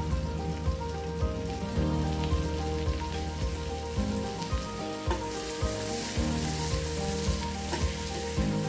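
Chopped green chillies sizzling in melted butter on a hot tawa. The sizzle grows louder about five seconds in.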